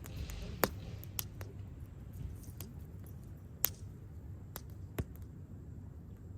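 Wood fire crackling: a handful of sharp, irregular pops and snaps over a low steady rumble, with the loudest pops about half a second in and a little past the middle.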